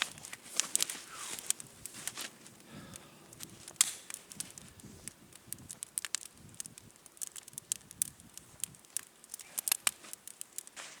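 Irregular crackling with many sharp clicks and ticks.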